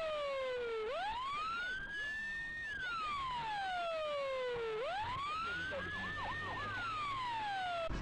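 Emergency-vehicle siren on a slow wail, each cycle rising quickly, holding briefly at its peak, then falling slowly over about three seconds, with echoes.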